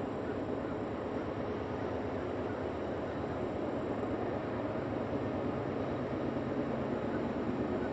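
Freight cars of a passing CSX train rolling by, a steady running noise of steel wheels on the rails.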